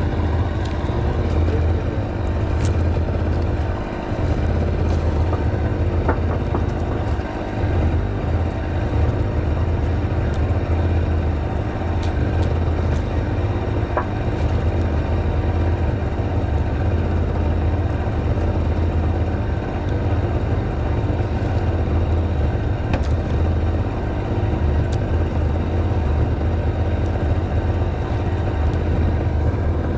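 A small engine running steadily at constant speed, a low hum with a buzzing tone above it, with a few faint ticks scattered through.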